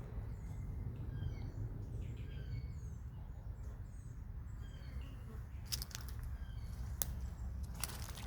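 Small birds chirping in short, scattered calls over a steady low rumble, with a few sharp clicks or snaps in the second half.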